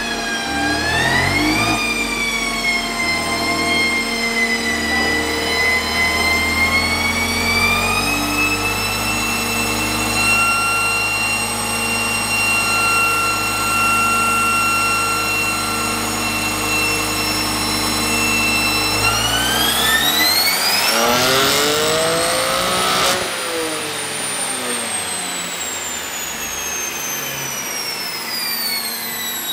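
BMW F80 M3's twin-turbo inline-six running in fifth gear on a chassis dyno. It holds steady for a long stretch with its pitch creeping slowly up, then climbs fast in pitch under a full pull to a peak about 23 s in, and winds down with falling pitch through the rest.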